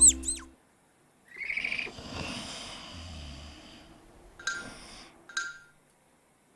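Cartoon sound effects: a long breathy snore, fading out, then two short chirps.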